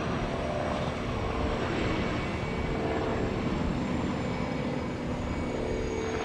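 Aircraft engine noise: a steady drone with a faint high whine that slowly falls in pitch as the aircraft moves past.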